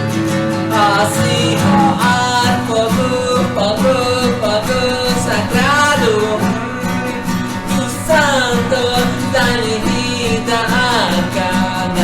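A voice singing a slow, gliding melody over strummed acoustic guitar.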